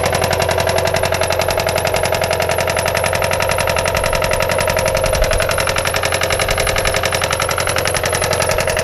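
Failing car engine running with a loud, rapid, even knocking clatter, the sound of an engine dying. Heard through a GoPro's protective case.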